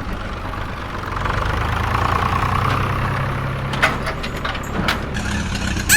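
Engine running steadily at idle, a low even hum, with a few short clicks about four and five seconds in.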